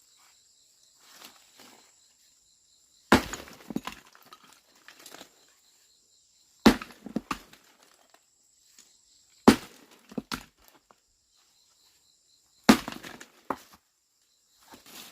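Heavy blows on stone, four strikes about three seconds apart, each followed by a brief clatter of breaking pieces.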